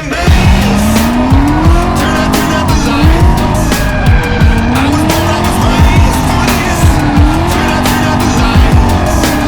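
Turbocharged M62 V8 in a BMW E30, revving up and down repeatedly while drifting, with tyres squealing. Sharp cracks are mixed in throughout.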